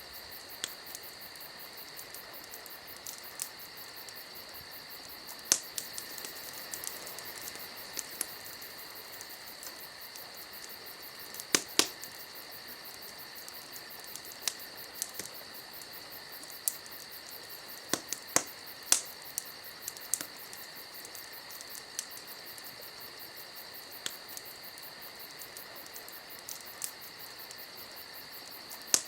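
Campfire wood crackling, with irregular sharp pops, some in quick pairs, over a steady high-pitched hum.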